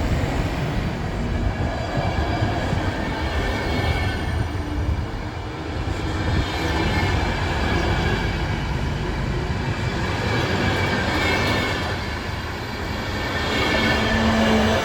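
Train passing on the rails: a steady, continuous rumble of wheels and running gear, with faint high tones over it.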